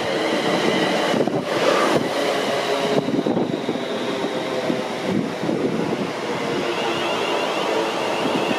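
A train running through the station: a steady rush of wheels on rail, with faint steady whining tones underneath.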